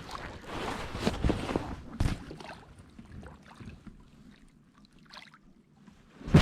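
Water splashing and knocks against a kayak as a hooked blue catfish is brought in, several sharp knocks in the first two seconds dying away to quiet, then one loud knock at the end.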